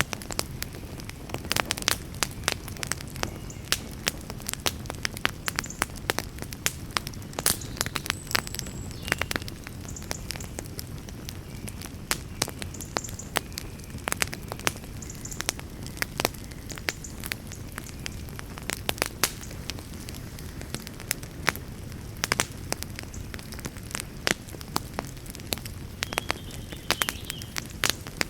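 Campfire crackling: frequent, irregular pops and snaps over a steady low rush of burning flames.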